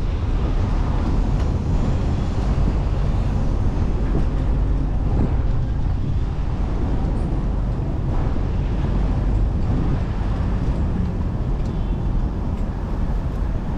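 Steady, loud rumble of wind on the microphone of a camera riding along on a moving bicycle, mixed with city road traffic.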